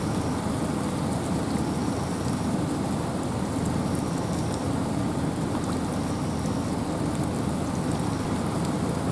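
Steady wind and rain in a forest: a deep, even rushing with a light patter of raindrops.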